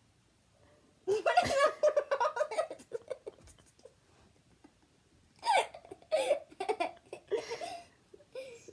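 A person laughing in two bouts: a burst of laughter about a second in lasting a couple of seconds, then more short laughs from about halfway through.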